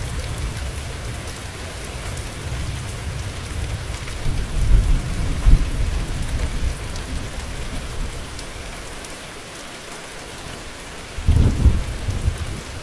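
Steady rain falling, with deep low rumbles of thunder that swell about five seconds in and again near the end.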